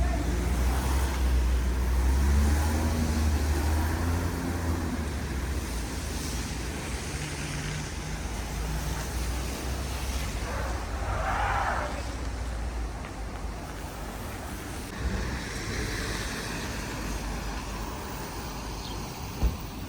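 City street traffic. A vehicle's engine rumbles close by for the first few seconds, then fades to steady traffic noise. There is a short hiss about eleven seconds in and a sharp knock near the end.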